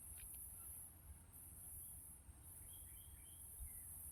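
Faint outdoor ambience: a few short, high bird chirps in quick succession about two and a half seconds in, over a steady high insect hiss and a low rumble.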